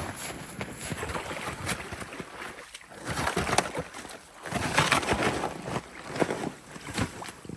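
A person moving on foot through deep snow and brush: irregular scuffing and rustling, with a few sharp snaps and louder surges of effort.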